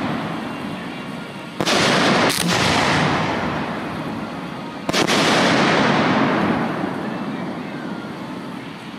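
1.3G display fireworks going off: sharp reports about one and a half seconds in, again just under a second later, and near the middle. Each report is followed by a dense hiss that fades away over a few seconds.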